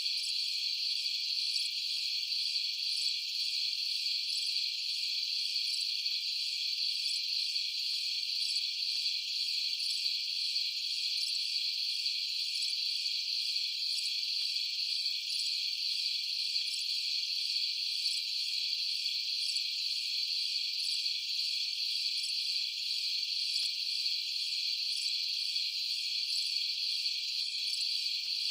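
Night chorus of crickets: a continuous high, even trill, with a fainter pulsing chirp above it about twice a second.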